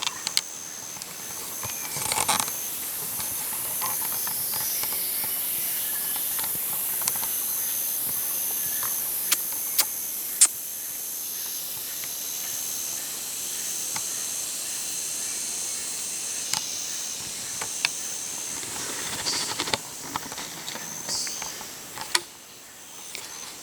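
Jungle insects droning in a high, steady hiss, with a high, evenly pulsed call repeating over it. Scattered sharp clicks and snaps sound through it, and the hiss fades out near the end.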